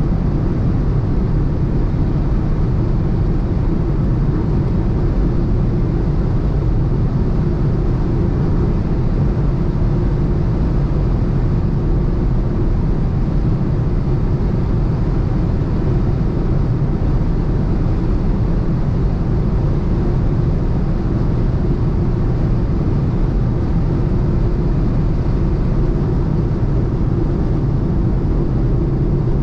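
Cabin noise of a BMW 118i cruising steadily at high autobahn speed: dense, unchanging wind and tyre noise with the hum of its three-cylinder engine underneath, holding a constant pitch with no gear changes or revving.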